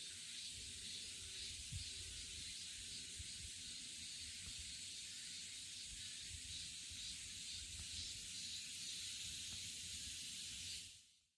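A faint, steady hiss with soft low rumbles and occasional light knocks underneath, fading out near the end.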